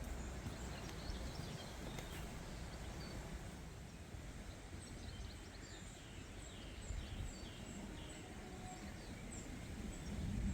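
Small birds singing in garden outdoor ambience, with a run of short, high, repeated notes from about halfway through, over a steady low rumble.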